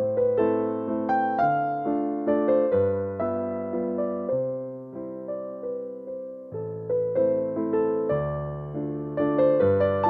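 Background piano music: a gentle melody of struck notes over sustained low bass notes.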